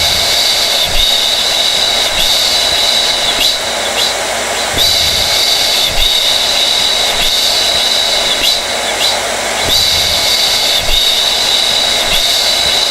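Hair dryer running continuously: a steady airflow rush with a high motor whine, dipping slightly about once a second.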